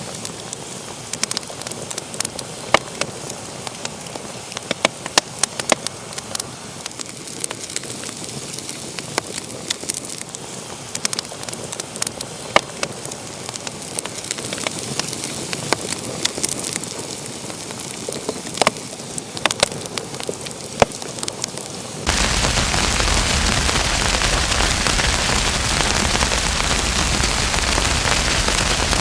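Wood fire in a fireplace crackling, with frequent sharp pops and snaps over a soft hiss. Near the end the sound cuts abruptly to a louder, steady hiss with no pops.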